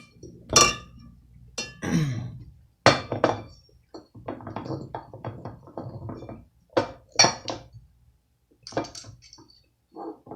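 Glassware and dishes clinking and knocking on a table, a dozen or so sharp clinks and knocks, some ringing briefly.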